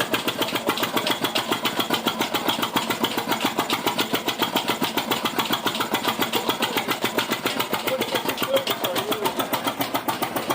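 Diesel engine of a Ruston & Hornsby 165DS shunting locomotive running steadily at idle, with a quick, even beat of firing pulses.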